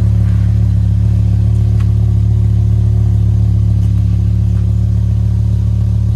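BMW M6 engine idling steadily shortly after a cold start, with the engine still cold.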